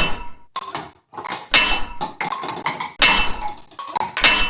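A metal spoon striking drinking glasses: a quick series of sharp clinks, each followed by a brief ringing tone.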